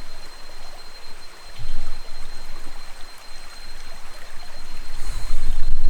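Jungle river flowing steadily over rocks, under a thin, steady, high insect tone. Low rumbling thumps swell up about a second and a half in and again, louder, near the end.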